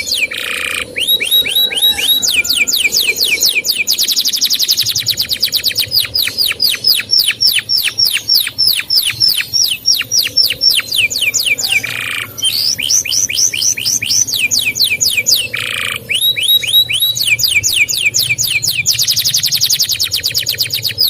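Male canary singing a long song made of phrase after phrase of rapid, evenly repeated falling chirps, each phrase at a different speed, with a brief buzzy note between some phrases.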